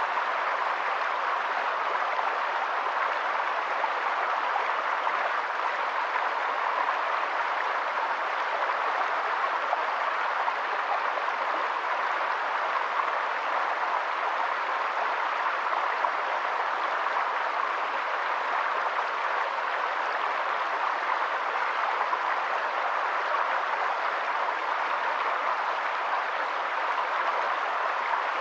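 Steady rushing of running water, an even, unbroken hiss with no change in level.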